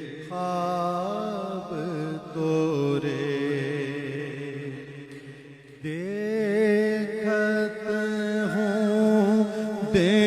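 Naat intro: a steady low drone of voices under a lead voice holding long, wavering notes without clear words. The sound fades down, and a new louder phrase comes in about six seconds in.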